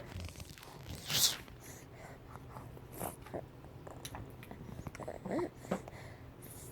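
Dog chewing and tearing at a Big Bird toy: scattered crunching, biting and scratchy tearing sounds, the loudest a scratchy burst about a second in.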